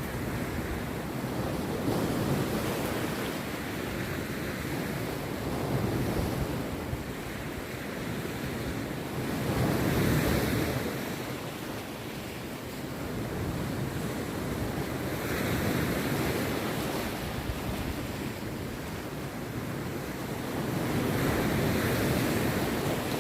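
Rough sea waves breaking on a sandy beach, a continuous wash of surf that swells with each breaker every four to six seconds, the biggest surges about ten seconds in and near the end.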